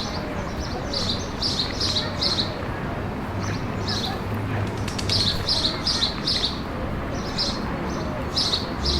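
A small bird chirping: short high chirps in quick runs of three or four, repeated every couple of seconds, over steady background noise.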